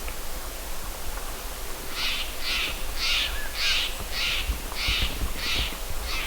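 A bird giving a run of eight harsh, crow-like calls in even rhythm, under two a second, starting about two seconds in.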